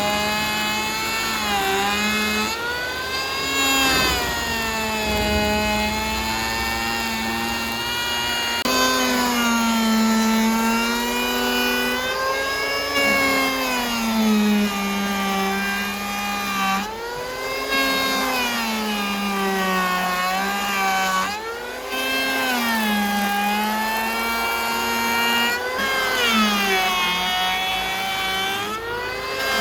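A motor-driven wood saw running continuously, its pitch dipping and rising again every second or few as the load on it changes.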